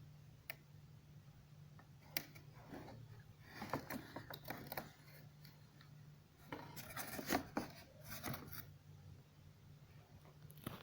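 Faint clicks and rubbing of hard plastic being handled, in two bursts of a second or two, over a steady low hum.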